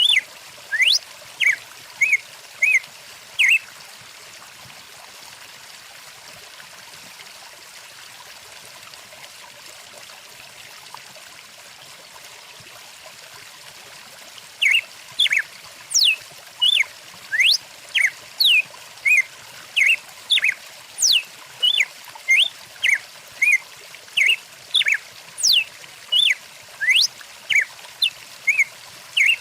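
Stream water running steadily, with a bird singing loudly above it in sharp rising and falling whistled sweeps and short chirps. The song breaks off a few seconds in and comes back about ten seconds later, then goes on in quick phrases.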